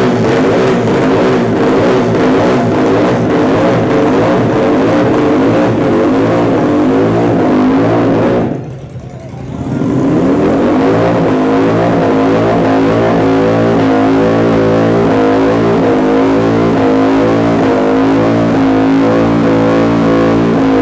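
Motorcycle engine held at high revs during a burnout. The revs drop away sharply about nine seconds in, then come straight back up.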